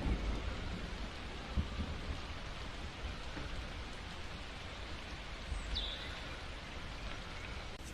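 Steady rain falling, an even hiss with soft low rumbles underneath, and a short high chirp about six seconds in.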